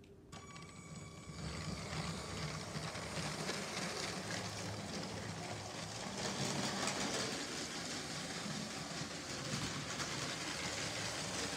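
A train running: a steady rumbling rattle that starts suddenly, with a brief high ringing tone at its start, and grows louder over the first two seconds before holding steady.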